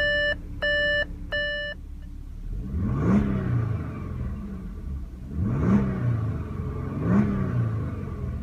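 A car's electronic warning chime beeps a few times in a steady rhythm and stops about two seconds in. Then the Audi A7's 3.0-litre supercharged V6 idles and is revved three times, each rev rising quickly and dropping back to idle.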